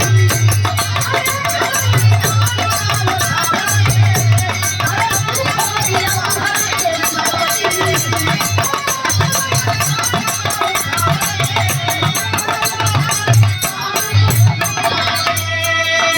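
Instrumental passage of a Bhojpuri birha folk song: a steady hand-drum beat with rattling percussion under melody instruments, and a long held note near the end.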